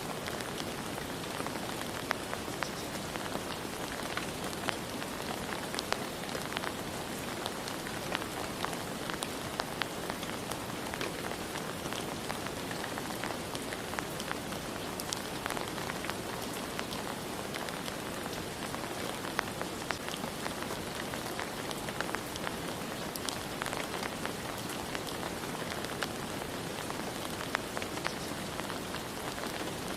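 Steady rain falling, with many scattered louder drops ticking through the hiss.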